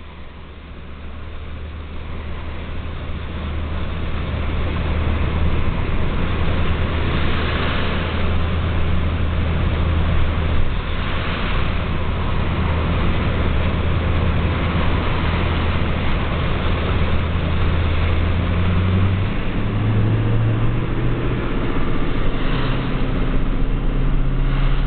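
A motor vehicle's engine running with a low steady hum over a steady hiss. It grows louder over the first few seconds, then holds, and its pitch steps up twice near the end.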